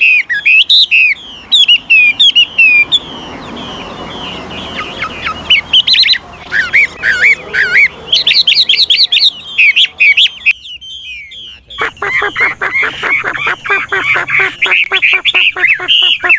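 Chinese hwamei singing a varied song of quick slurred whistles, changing phrase after phrase. After a brief pause about two-thirds through, it goes into a fast run of repeated notes.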